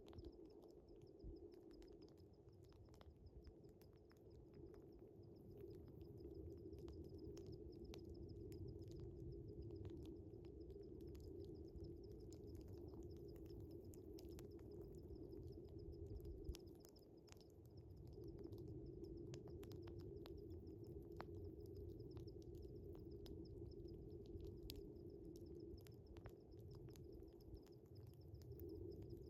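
Faint wood fire crackling with scattered small pops, over a steady chorus of crickets chirping in a fast, even pulse. A low steady rumble runs underneath, dropping away briefly partway through.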